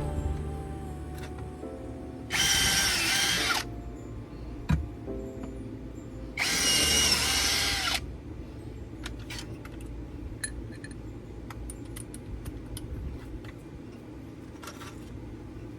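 Two short bursts of a small electric motor with a high whine, each a second or so long and about four seconds apart, with a single knock between them.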